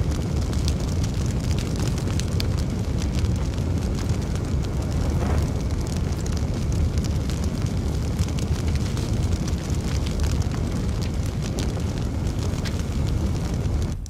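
Fire burning in a fireplace: a steady low rumble of flames with frequent sharp crackles and pops throughout.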